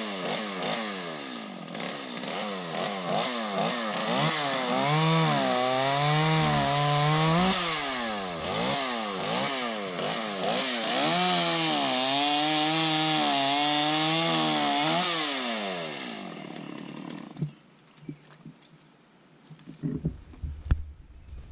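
Gasoline chainsaw running and cutting wood, its engine speed rising and falling again and again. It winds down and stops about three-quarters of the way through, followed by a few faint knocks.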